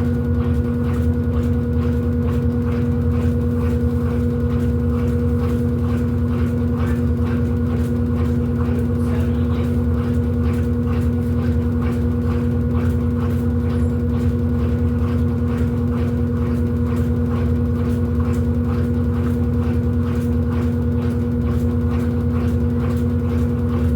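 Electrolux LED14 top-load washing machine running steadily: a constant motor hum with a fast, regular ticking.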